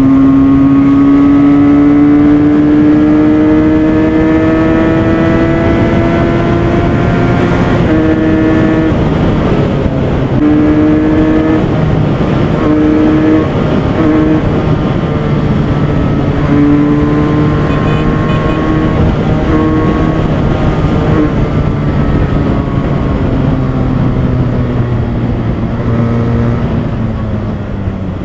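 Benelli 302S's 300 cc twin-cylinder engine at high revs under hard acceleration. The pitch climbs steadily for about seven seconds, then rises in several shorter steps with brief breaks between them, and falls near the end as the bike slows from a top-speed run.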